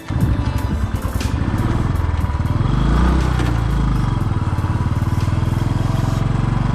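Single-cylinder Royal Enfield motorcycle engine running under way, heard from the rider's seat as a steady, fast pulsing. Its note rises and then falls about three seconds in.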